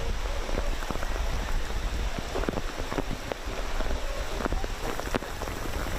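Heavy rain pouring down, with many sharp close drop strikes over a steady low rumble. It cuts in suddenly.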